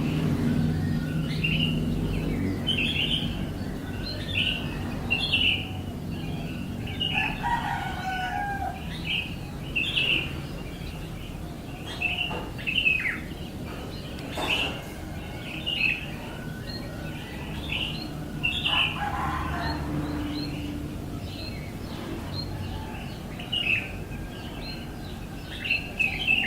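A bird chirping: short, high chirps repeated about once a second, with a few longer, lower calls, over a steady low rumble.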